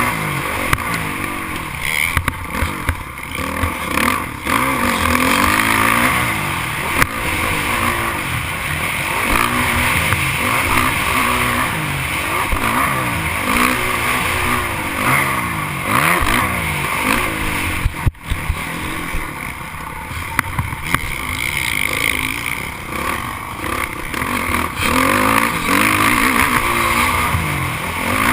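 Motocross dirt bike engines racing around the track, revving up and dropping off over and over as the riders go through turns and jumps. The sound breaks off for an instant about eighteen seconds in.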